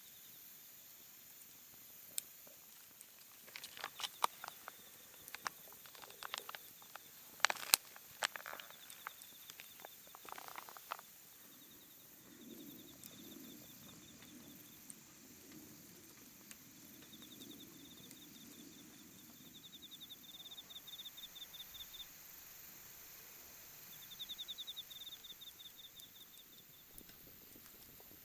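A run of sharp clicks and knocks for several seconds, then an insect chirping in repeated pulsed trills every few seconds, with a low rumble in between.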